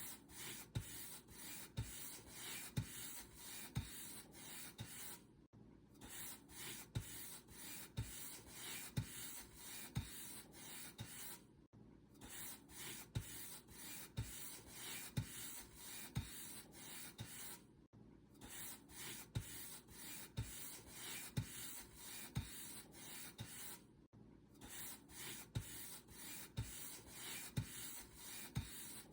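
Paint brush stroking back and forth across a surface in a steady rhythm, about two strokes a second, each with a soft low thud. The brushing stops briefly about every six seconds, then resumes.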